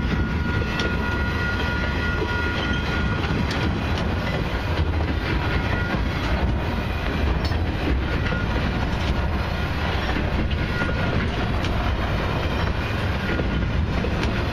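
A freight train of highway semi-trailers on flatcars rolling past. It makes a steady rumble of wheels on rail, with scattered clicks as the wheels cross rail joints.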